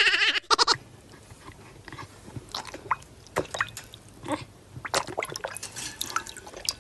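Dog lapping and mouthing at water in a bowl: irregular wet laps, ticks and small splashes. A loud sound fills the first second and cuts off.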